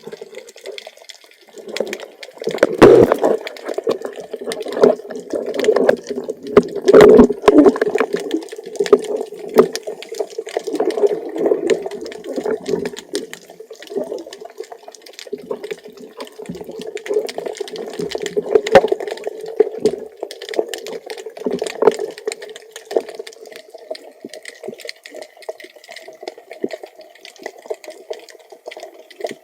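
Water sounds recorded underwater: muffled gurgling and bubbling with many sharp clicks and crackles, loudest in the first half and then settling to a steadier wash.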